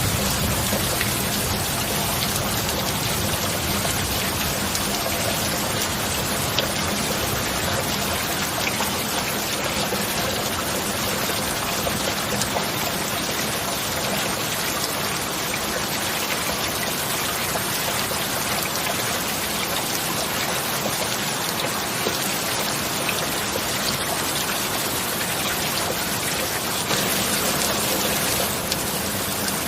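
Steady, heavy rain falling, a dense even hiss with scattered drop taps, mixed with a faint low steady hum.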